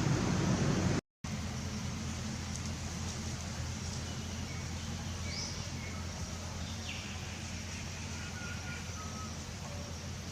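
A steady low mechanical hum, with faint short chirps and squeaks over it; the sound drops out completely for a moment about a second in.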